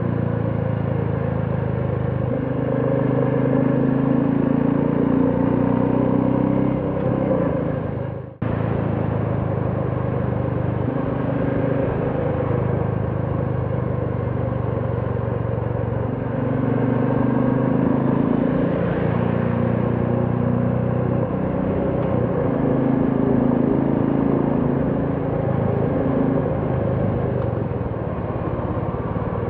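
Royal Enfield Classic 350's single-cylinder engine running under way, its note rising and easing every few seconds with the throttle. The sound drops out briefly about eight seconds in.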